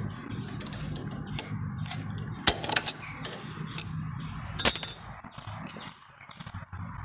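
Steel hand tools clinking and tapping against motorcycle engine parts as the circlip and rotor oil filter on the crankshaft are worked loose. There are scattered single clicks, a cluster of clinks a little over halfway through, and a louder ringing metal clatter shortly before the end.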